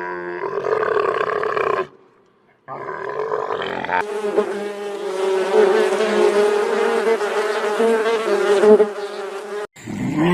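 A flying insect's steady buzzing drone, in two stretches: a short one, then after a brief gap a longer one of about seven seconds.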